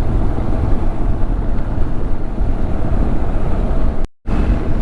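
Motorcycle riding along: steady wind rush over the microphone mixed with engine and road noise. The sound drops out completely for a split second about four seconds in.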